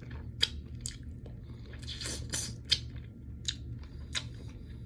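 Person eating a hard-candy Jolly Rancher lollipop close to the microphone: irregular crunches and wet mouth clicks as the candy is bitten and chewed.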